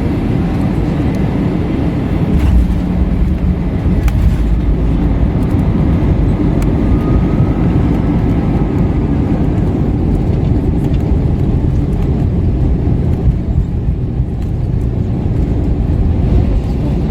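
Steady low rumble inside the cabin of an Airbus A321 rolling on the runway after landing, with engine and wheel noise, growing louder about two and a half seconds in.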